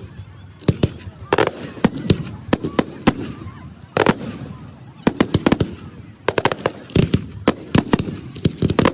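Fireworks display shells bursting in a string of sharp bangs and cracks, spaced irregularly at first, then coming in a rapid crackling barrage from about halfway through.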